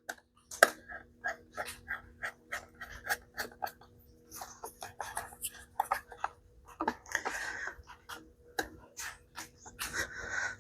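Irregular light clicks and short scrapes of parts and a tool being handled during reassembly of a small chainsaw, over a faint steady hum.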